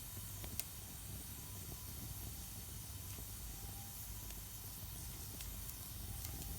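Wood fire burning in a Solo Stove Campfire stove: a steady hiss with a low rumble, broken by a few sharp crackles.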